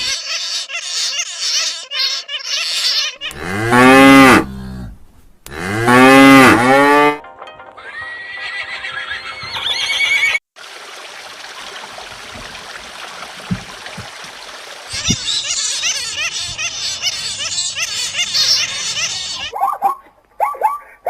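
Cow mooing: two long moos, each rising and then falling in pitch. Quieter high chirping comes before and after them.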